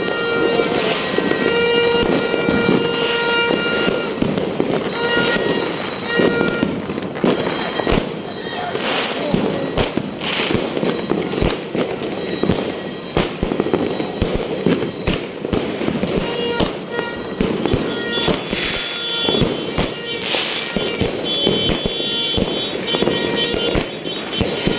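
Fireworks going off in quick succession: a dense stream of bangs and crackling pops with no let-up.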